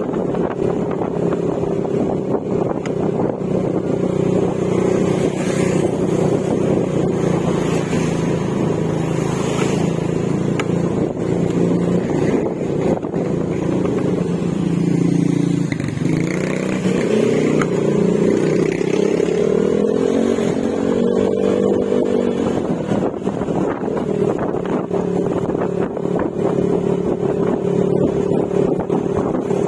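Yamaha Mio Gravis 125 cc single-cylinder scooter running at steady cruising speed through an Akrapovic exhaust with silencer. About halfway through, the engine note drops and then climbs back up as the throttle is eased and reopened, then holds steady again.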